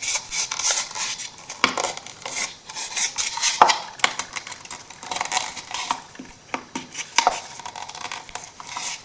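Scrapbook paper being handled and rubbed down onto a wooden box, with irregular rustling and scattered small clicks and taps on the work surface.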